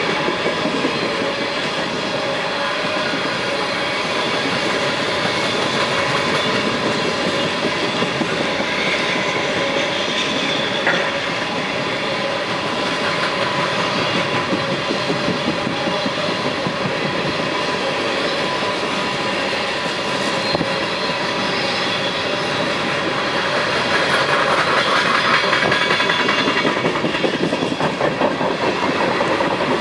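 Empty freight coal cars rolling past, their steel wheels clattering on the rails, with faint steady ringing tones running through the clatter.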